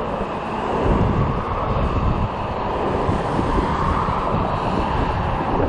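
Gusty wind buffeting the microphone of a moving e-bike, a low rumble that builds about a second in, over a steady rush of road noise.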